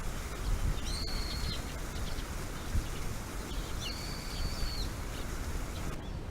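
A bird calling twice: two high, level whistled notes, each under a second long and about three seconds apart, over a steady low rumble.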